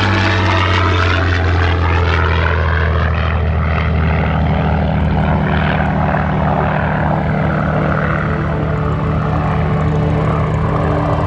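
Supermarine Spitfire's Rolls-Royce Merlin V12 engine running steadily with a deep, even propeller drone, the higher tones sweeping in pitch during the first few seconds.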